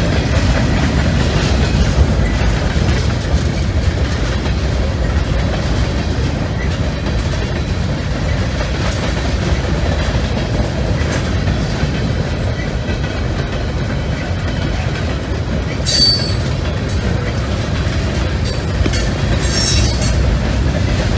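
Freight train boxcars rolling past with a steady low rumble and wheel clatter. There are brief high-pitched wheel squeals about 16 seconds in and again near the end.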